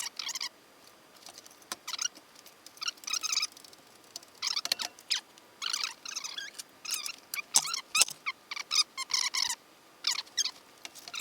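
Engine hoist and its lifting chain squeaking and creaking in short, high-pitched bursts as the Saab engine is lowered into place, with a couple of sharp metallic clanks about eight seconds in.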